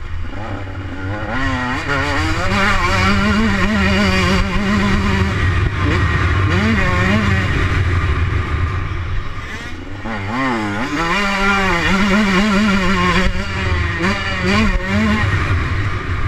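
125 cc Husqvarna motocross bike engine ridden hard, revving up and down through the gears with its pitch climbing and dropping repeatedly. It eases off briefly about ten seconds in.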